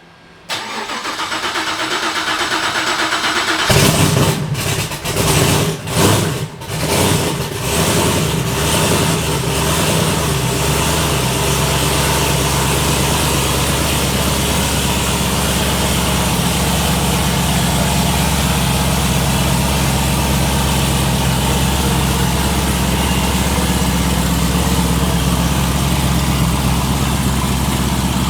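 Car engine being started: about three seconds of cranking, then it catches and is blipped several times in quick sharp revs, before settling into a steady idle.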